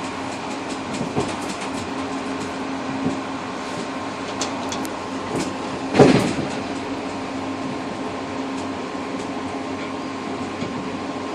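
Interregional multiple-unit train running, heard from the rear cab vestibule: a steady rolling rumble with a constant hum and light wheel clicks. About six seconds in there is one loud sharp knock from the wheels.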